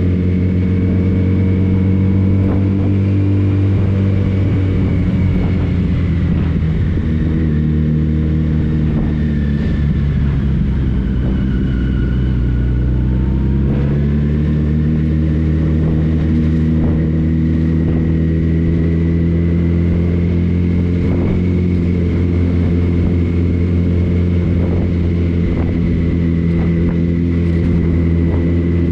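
Motorcycle engine running under way. The engine note drops as it slows about ten seconds in, then rises again as it accelerates a few seconds later.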